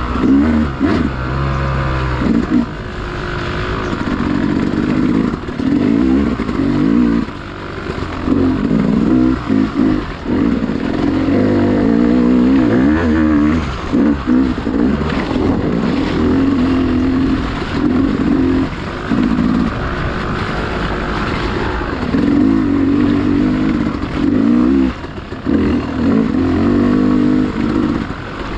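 Dirt bike engine being ridden hard, its revs rising and falling constantly with the throttle, with brief dips where it is backed off.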